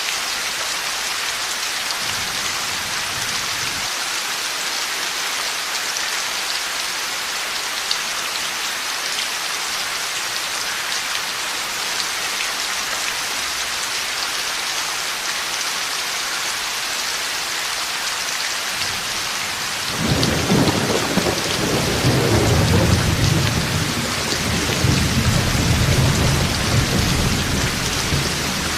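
Steady heavy rain falling, with thunder breaking in suddenly about two-thirds of the way through and rumbling on for several seconds before easing off near the end.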